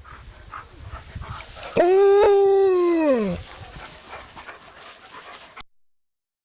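Alaskan Malamute giving one loud howl lasting about a second and a half, held at a steady pitch and then sliding down at the end, with softer scuffing noises before and after.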